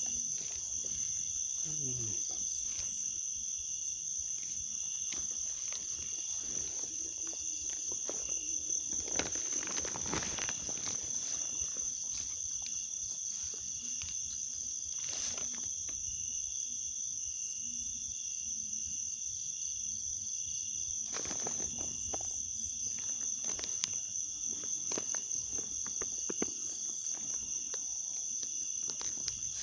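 A steady, high-pitched chorus of insects, typical of crickets, with scattered faint clicks and two short stretches of rustling or splashing, about a third of the way in and again about two thirds in.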